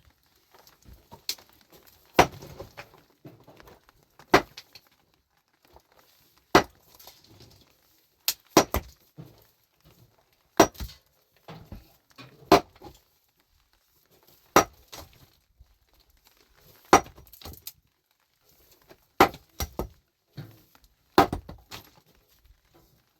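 Heavy iron hand tool striking rock, about ten hard blows roughly two seconds apart, some followed by smaller clinks of stone.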